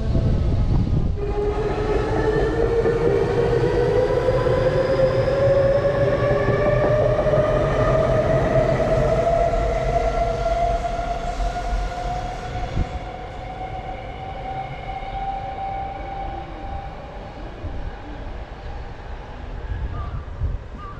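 Electric commuter train pulling out of the station: its traction motors' whine rises steadily in pitch as it accelerates, over a heavy rumble that fades through the second half as the train draws away.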